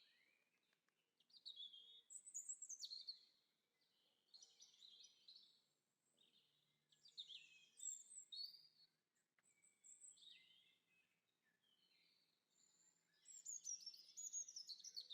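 Birdsong: quick high chirps and trills in short bursts every couple of seconds, cutting off suddenly at the end.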